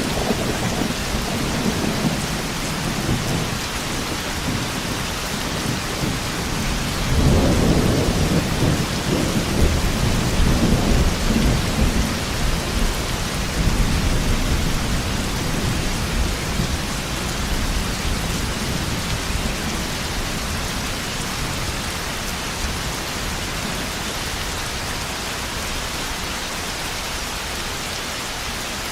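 Thunderstorm: steady heavy rain with a loud roll of thunder rumbling from about seven seconds in, easing off after about fourteen seconds and leaving the rain alone by the end.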